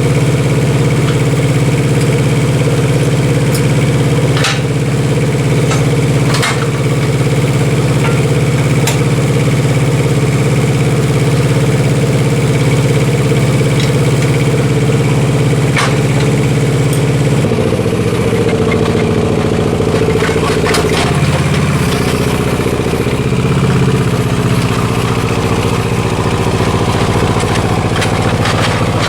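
Spider crane's engine running at a steady note, which shifts and turns uneven a little past halfway. A few sharp clicks sound over it.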